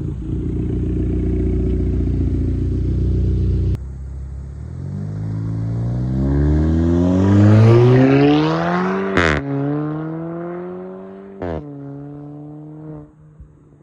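Turbocharged Kia Forte GT's exhaust, straight through with the muffler and secondary catalytic converter deleted: a loud, rough drone under hard load cuts off abruptly. The car then accelerates with the note rising through the revs, and twice the pitch drops sharply with a short crack as it shifts up. It settles to a steady cruising tone near the end.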